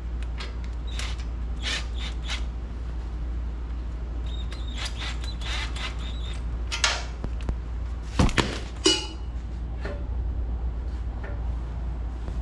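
Scattered knocks and clinks, with a few sharper ones about two-thirds of the way in, over a steady low hum.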